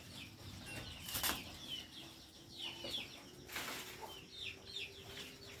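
Chickens: many short, high peeps and cheeps, with three brief flurries that sound like wing flaps.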